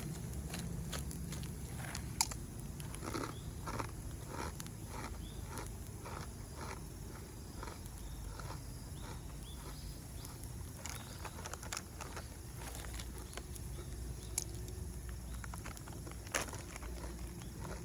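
Campfire crackling, with scattered sharp pops of burning wood, over a steady low rumble; insects chirp faintly throughout.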